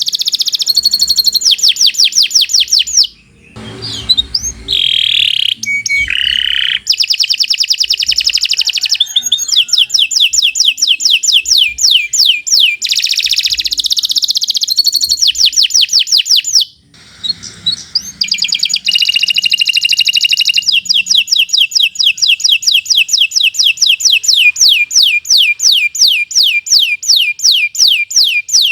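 Domestic canary singing a long, loud song of fast trills: runs of rapidly repeated falling chirps, about ten a second, with brief breaks about three seconds in and about seventeen seconds in.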